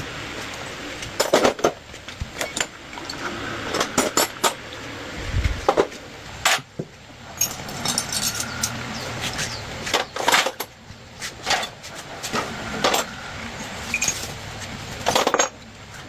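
Irregular metallic clinks and knocks of hand tools and small metal parts being handled, a dozen or more sharp strikes with short gaps between, and one dull low thump about five seconds in.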